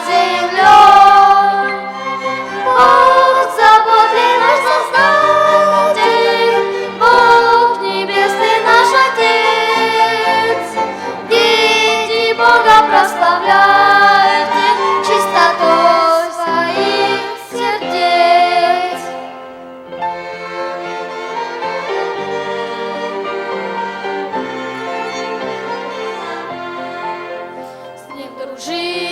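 Children's choir singing a Christian song with a string-and-wind orchestra, violins prominent. About twenty seconds in the voices drop out and the orchestra plays on alone, more quietly.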